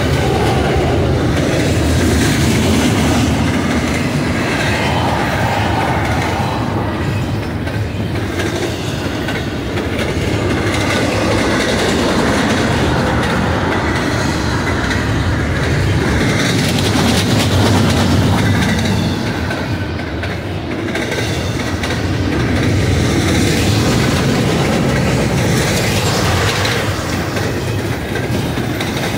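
Loaded double-stack intermodal well cars of a BNSF freight train rolling past close by: a loud, steady rumble of steel wheels on rail with rhythmic clickety-clack as the trucks pass.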